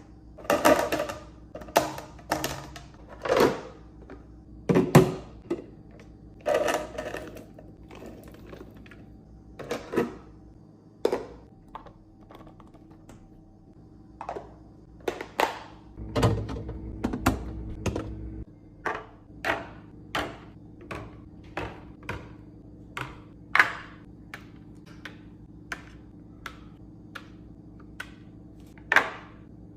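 Irregular clacks, taps and thunks of food containers, bottles and packages being set down and arranged on fridge shelves, sometimes several a second, over a faint steady hum.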